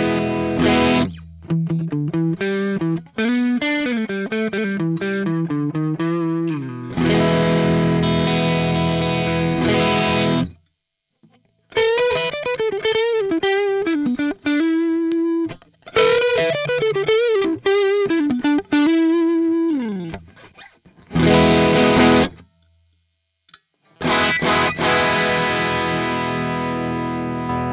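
Vantage 635V semi-hollow electric guitar played through distortion. It alternates ringing strummed chords with quicker single-note riffs, stopping briefly twice.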